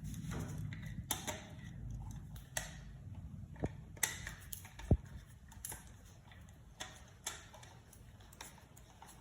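Scattered light clicks and taps of hands working wires into an electrical switch's terminals, over a low handling rumble that fades after the first few seconds.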